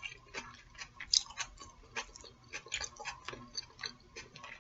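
Close-miked chewing and wet mouth clicks as a mouthful of food is eaten, a string of irregular soft clicks and smacks.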